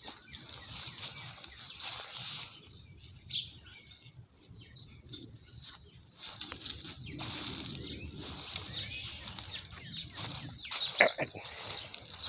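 Backyard birds chirping here and there over a steady rustling noise, with a couple of sharp clicks near the end.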